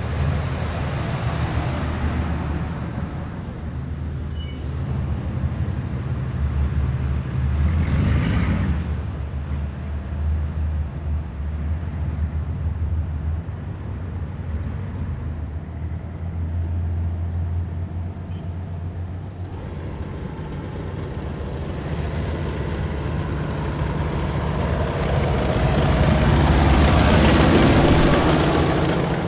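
Heavy military vehicles passing in a column, their diesel engines making a continuous low drone. A brief hiss comes about eight seconds in, and a louder vehicle passes close near the end.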